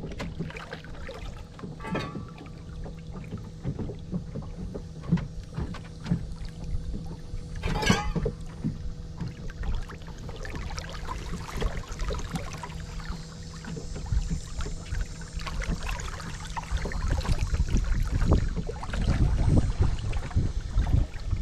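Small fishing boat underway: a steady motor hum with scattered knocks and water splashes against the hull. Over the last few seconds a louder rumble of wind on the microphone builds up.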